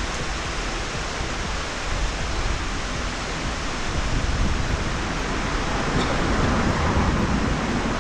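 Steady rush of falling water from a waterfall, growing a little louder in the second half.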